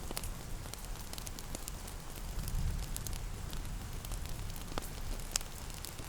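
Fireplace crackling with scattered sharp pops over a steady low rumble, mixed with soft rain. One pop near the end is louder than the rest.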